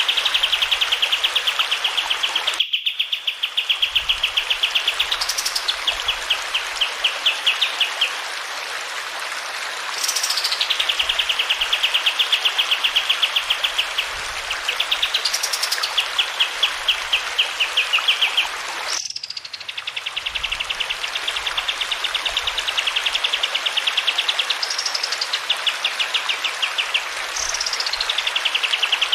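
Kapas tembak songbird singing long, rapid, even trills, each phrase broken by a sharp rising whistle-like note, phrase after phrase, over a steady hiss of running water. The song drops out abruptly twice, about three seconds in and about two-thirds of the way through, where the recording is spliced.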